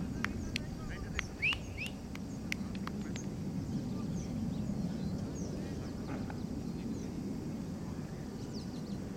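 Birds chirping in short high calls, with a louder squawking pair of calls about a second and a half in, over a steady low rumble.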